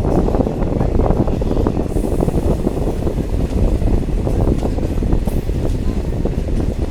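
Diesel multiple unit train running along the track: a steady, loud rumble with a dense clatter of small knocks from the wheels and rails.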